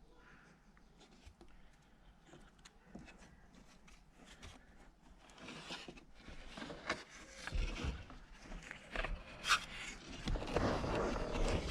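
Rubbing and scraping of car interior trim being handled and fitted back into place, with a few small knocks. It starts faint about halfway through and grows louder near the end.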